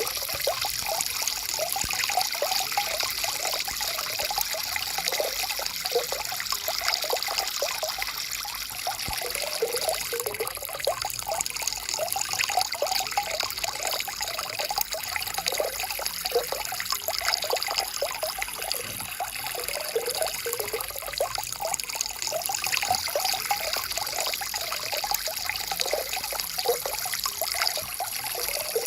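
Small forest stream flowing steadily, water trickling and gurgling over stones.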